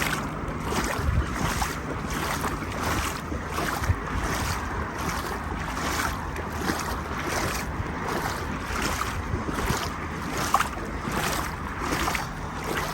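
Legs wading knee-deep through floodwater, a swishing splash with each stride about twice a second, with wind on the microphone.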